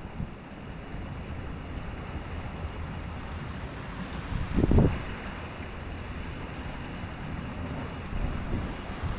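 Ocean surf washing in steadily, with wind buffeting the microphone. A brief loud low thump a little under five seconds in.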